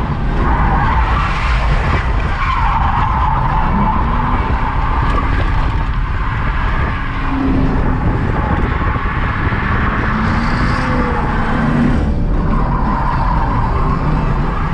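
A drift car sliding with its tyres squealing in long stretches while the engine is held high and revs rise and fall.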